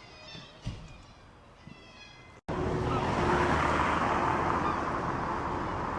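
Gulls mewing, a few short high calls. About two and a half seconds in, a sudden cut brings in a louder steady rushing noise with a faint hum under it.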